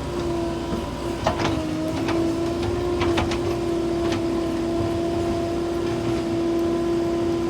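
Heavy diesel machinery running steadily, with a constant whine over the engine rumble and a few sharp metallic clanks about one and three seconds in.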